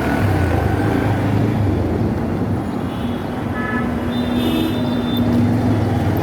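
Road traffic noise with a steady low engine hum, motor vehicles running on the road.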